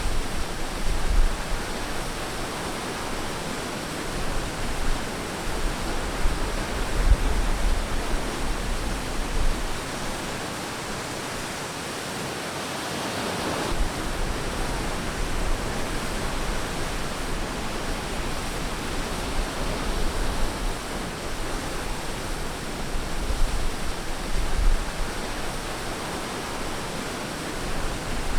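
Ocean waves washing onto a beach: a steady rush of surf that swells and eases, with a few deep low rumbles.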